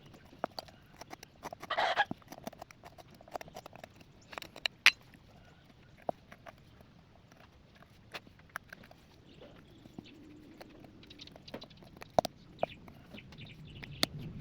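Irregular light taps and clicks of hand-tool work on wood, with a short scraping burst about two seconds in.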